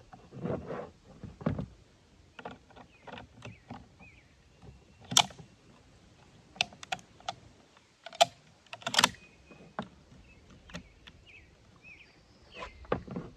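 Irregular clicks, knocks and metallic clacks of a Swiss K31 rifle's parts being handled and fitted together during reassembly, with the sharpest clacks about five and nine seconds in.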